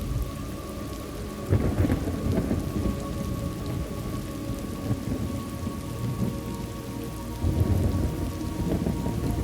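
Thunderstorm: steady rain with rolling thunder, one rumble swelling about a second and a half in and another near the end.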